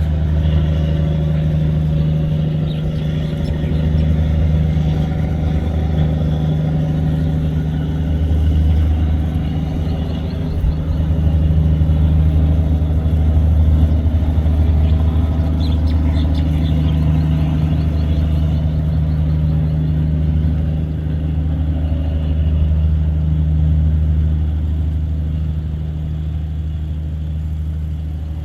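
Diesel engine of a river tugboat running steadily under load, a loud low drone with a constant hum.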